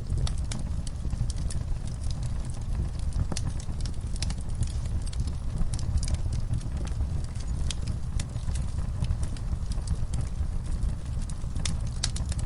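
Wood fire burning in a fireplace, with a steady low roar and irregular sharp crackles and pops.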